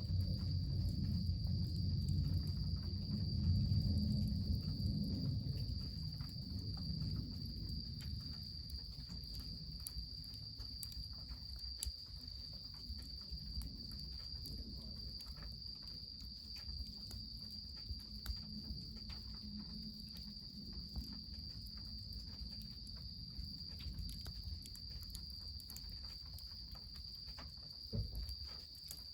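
Insects trilling in one steady, unbroken high tone over a low rushing sound, louder in the first few seconds, with scattered small crackles and ticks and a single louder knock near the end.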